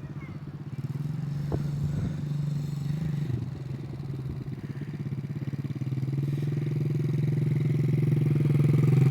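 A 50cc kids' dirt bike engine running at a steady low throttle. It grows steadily louder as the bike comes closer.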